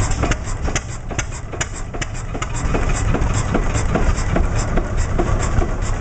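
Vintage Cummins stationary oil engine running steadily, with a regular knock of its firing strokes, a few a second, over a low rumble.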